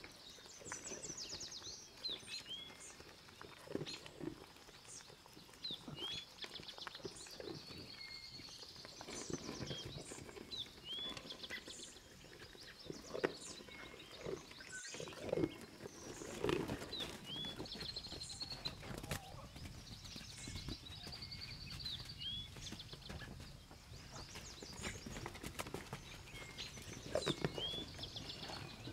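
Farm ambience: small birds chirping and trilling over and over, with a few short, lower animal sounds from livestock now and then, the loudest about halfway through.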